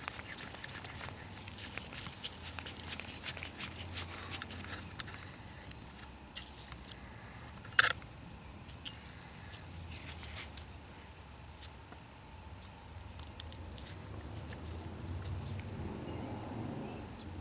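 Scattered small clicks and taps of hands and a tool working at a string trimmer's muffler parts, prying pieces loose, with one louder sharp click about eight seconds in.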